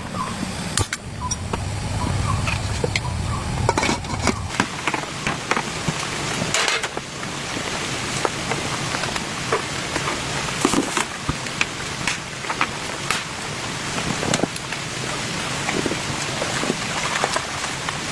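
Steady rain falling, with scattered sharper drop hits ticking on a surface throughout; a low rumble sits under the rain for the first four seconds or so.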